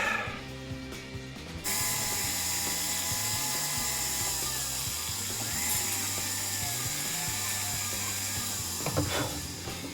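Jeweler's flex-shaft rotary handpiece running steadily, its whine wavering slightly in pitch as the speed shifts. It starts abruptly about two seconds in and stops near the end.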